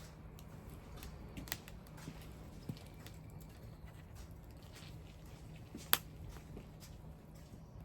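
Wood fire crackling, with scattered small pops and one sharp, louder pop about six seconds in.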